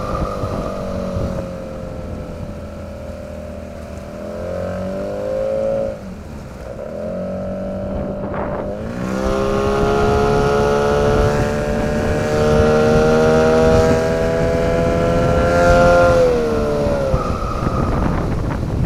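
A 9.8 hp outboard motor running, its revs falling, rising and held up, then dropping again near the end. A high whistle comes in as the revs come down, near the start and again near the end; this is the unexplained whistle on slowing that the owner is asking about.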